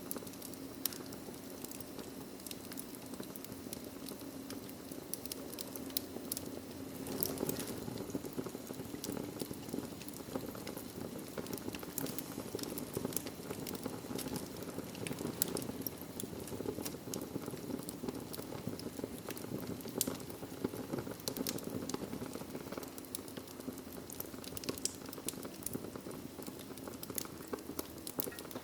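Wood fire burning in a fireplace: a steady low rush of flame with frequent small crackles and pops scattered throughout.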